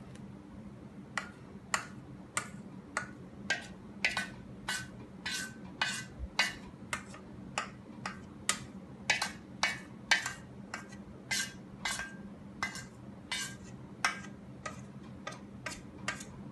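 A metal utensil clinking against a bowl in a steady rhythm, about one and a half strikes a second, as cake batter is scraped and poured into a baking bowl.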